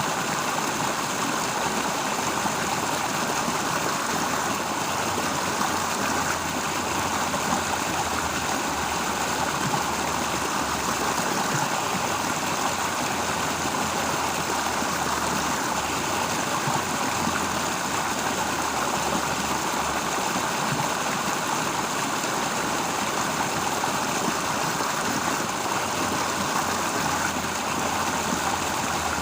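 Flowing stream water, a steady, even rush with no breaks.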